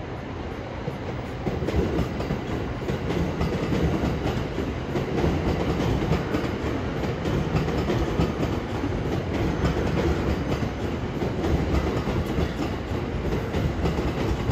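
JR 205-series electric train rolling slowly over yard tracks and points, a steady rumble of wheels on rail with fine clattering. The rumble grows louder about a second and a half in and then holds.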